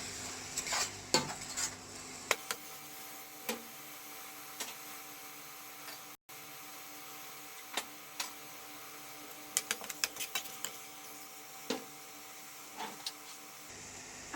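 Spoon stirring a tomato and nut paste in a pan, with irregular clicks and scrapes of the spoon against the pan over a faint steady sizzle.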